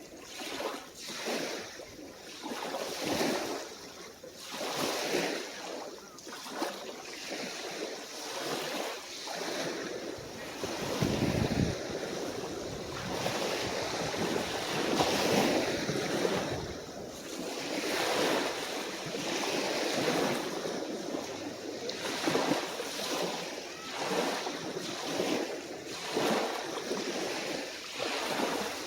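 Small calm sea waves breaking and washing onto the shore in quick, overlapping surges every second or so, busier in the middle. A brief low rumble comes about eleven seconds in.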